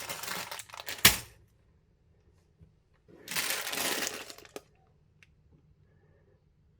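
Plastic crinkling in two bursts as a LEGO polybag and its pieces are handled. A sharp plastic click comes about a second in, and a smaller one just after the second burst.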